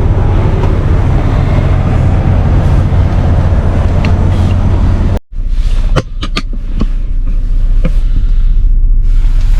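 Semi truck running: a loud, steady low rumble. It cuts off abruptly about five seconds in, and a deeper rumble follows with a few sharp clicks.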